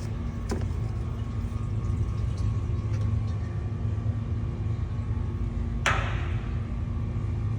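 Steady low hum of background machinery. A light click comes about half a second in, and about six seconds in there is a sharp knock that rings briefly.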